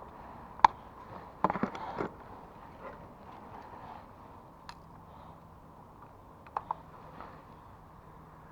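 A few sharp clicks and knocks from something being handled: one loud click just under a second in, a short rattling cluster around a second and a half to two seconds, and a couple of lighter clicks later on.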